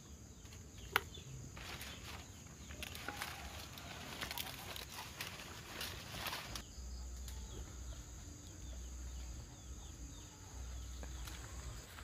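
Dry palm and banana leaves rustling and crackling as they are handled, with a sharp snap about a second in. The rustling stops a little past halfway.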